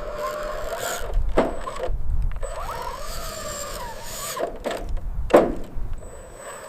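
Small electric motors and gearing of radio-controlled construction models whining, the pitch rising and falling as they work, over a low rumble, with a sharp knock about a second and a half in and another near five seconds in.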